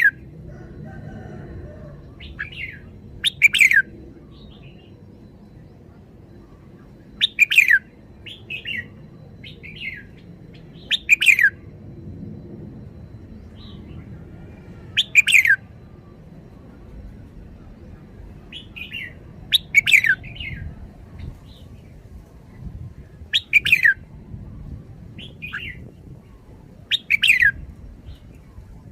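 Red-whiskered bulbul singing: short, loud, downward-sweeping phrases repeated about every four seconds, with softer notes in between.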